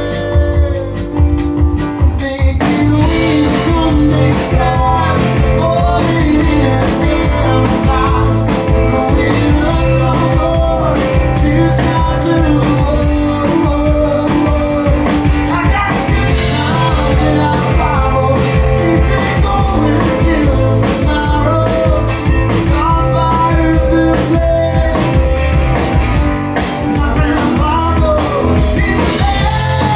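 Live band playing a rock song, with a steady drum beat and guitar.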